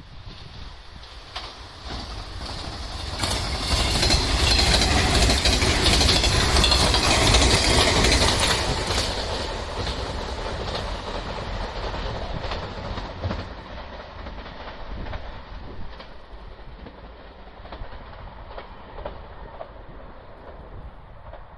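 JR 381-series tilting electric limited-express train passing close by, with a run of sharp wheel clicks over the rail joints. It grows loud over the first few seconds, is loudest for about five seconds, then fades as it runs off.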